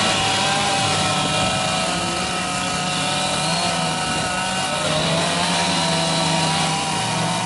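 Two-stroke chainsaws running steadily while carving wood, the engine pitch wavering up and down as the chain cuts.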